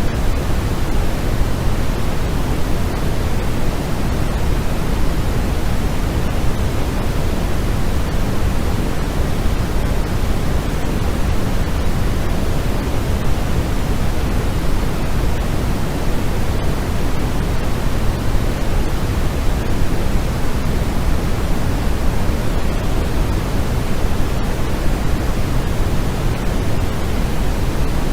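Steady, unbroken sleep noise of the kind sold as white noise: an even hiss with no rhythm or breaks, heaviest in the low end and thinning toward the top.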